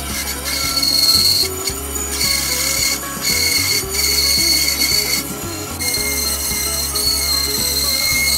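Delta ShopMaster benchtop band saw running, its blade cutting a block of walnut. The high whine of the cut comes and goes every second or two as the wood is pushed into the blade and eased back, over a steady motor hum.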